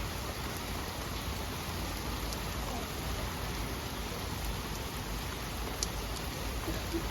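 Heavy rain falling steadily, with a few sharp clicks of drops striking something close by, one louder than the rest about six seconds in.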